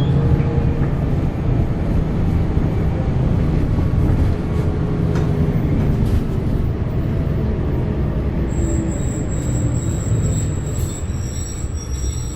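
Zyle Daewoo NEW BS090 Euro 6 diesel bus engine running steadily under way. A thin, steady high-pitched tone joins about two-thirds of the way through.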